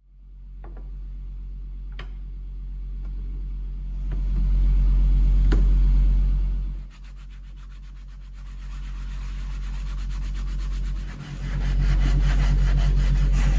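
An electric power tool's motor runs with a steady hum while an abrasive rubs against a part being cleaned. There are a few sharp clicks early on. From about seven seconds in, fast, even ticking sets in, and the level drops briefly twice as the tool's load changes.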